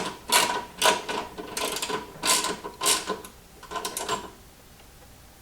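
Ratchet wrench turning a bolt down, clicking in repeated strokes about two a second; the strokes stop about four seconds in.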